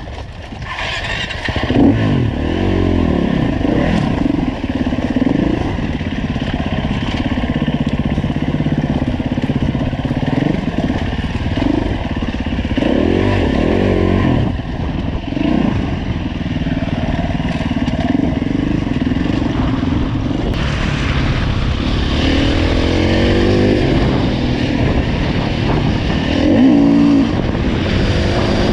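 2015 Husqvarna FE 350 dirt bike's single-cylinder four-stroke engine being ridden, its pitch rising and falling over and over with throttle and gear changes.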